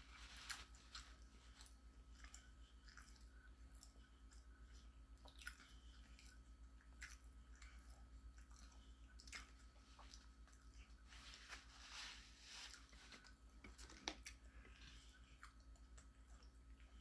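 Faint, close-up sounds of a person chewing a sandwich: soft, irregular mouth clicks and smacks, with one sharper click about fourteen seconds in.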